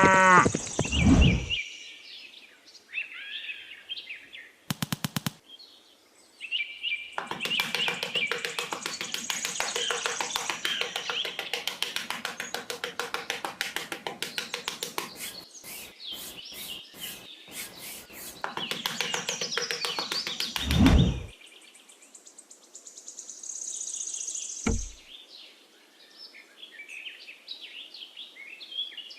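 A cow's moo ending in the first second and a half, then birds chirping. A long run of rapid ticking lasts about fourteen seconds, with a heavy thud near its end and another a few seconds later.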